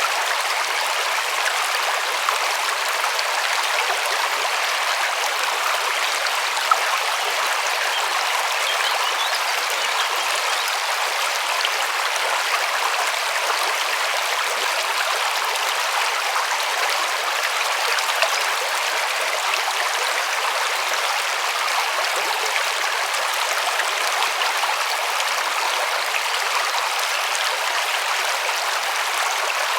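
River water rushing and splashing over stones: a steady, even rush of mostly higher-pitched water noise without any deep rumble.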